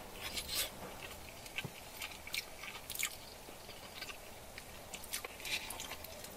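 A person chewing a mouthful of roast-meat rice close to the microphone: irregular soft wet clicks and small crunches of biting and mastication.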